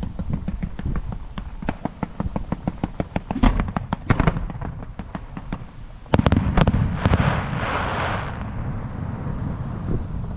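Fireworks: a rapid string of sharp pops for the first few seconds, a few louder bangs around the middle, then a loud salvo of bangs with a crackling shower that fades away.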